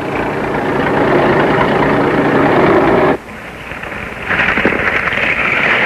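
Loud machinery noise, cutting off abruptly about three seconds in; after a short lull, a different, higher-pitched machine noise starts near the end.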